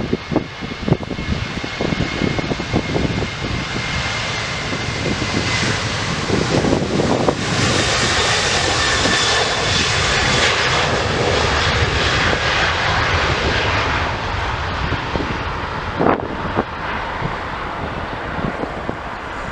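Jet airliner's engines passing close by, a loud rush with a faint high whine that builds to a peak about halfway through and then eases off. Wind buffets the microphone throughout.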